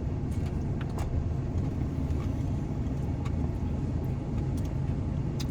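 Vehicle engine idling: a steady low rumble, with a few faint clicks over it.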